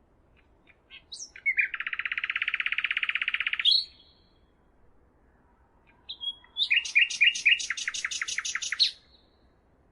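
A songbird singing two phrases. About a second and a half in comes a fast, even trill lasting about two seconds; after a pause comes a run of quick repeated notes, about six a second, lasting a little over two seconds.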